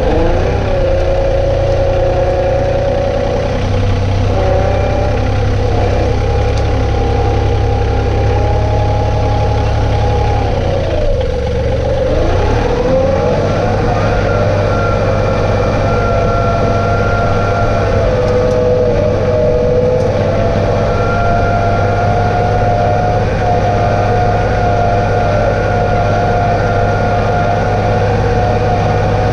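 John Deere 2032R compact tractor's three-cylinder diesel running steadily, with a mechanical whine over the low engine hum. The whine's pitch dips and climbs back a little under halfway through, as the engine speed or load changes, then holds steady.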